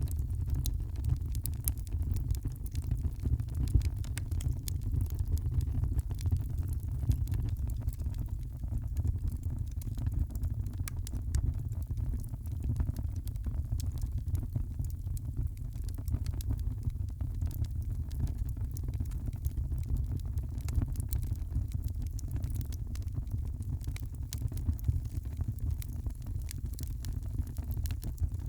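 Wood fire crackling, with frequent small sharp pops and snaps over a steady low rumble.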